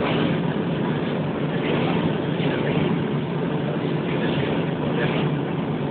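Steady engine drone inside an airliner cabin during the landing flight, a constant low hum over an even rushing noise.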